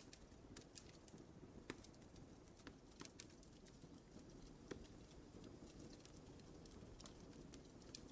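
Wood fire crackling faintly in a fireplace: irregular sharp pops, a few louder than the rest, over a low steady rumble of flames.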